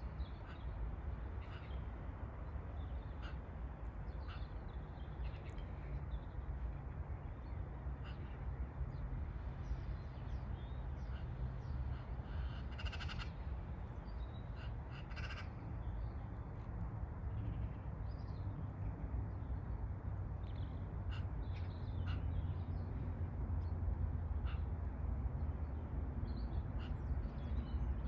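Crows cawing now and then, over a steady low rumble that grows slightly louder toward the end.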